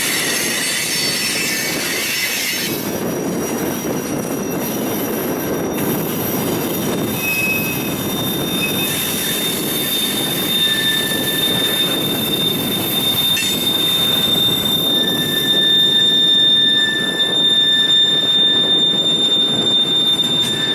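Freight train cars rolling past with a steady rumble of wheels on rail and metallic flange squeal. A high, steady wheel squeal sets in about halfway through and holds to the end, with shorter squeals of other pitches coming and going.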